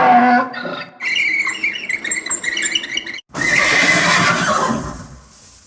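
A horse neighing: a shaky, high-pitched whinny from about a second in, then a louder whinny with a falling pitch that fades out.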